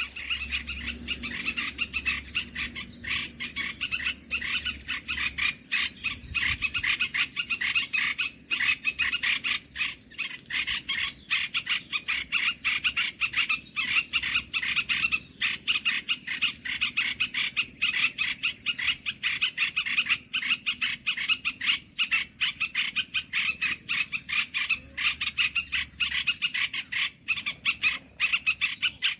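Bird-luring call for bulbuls: a continuous, rapid, rasping chatter of bird notes at a steady level.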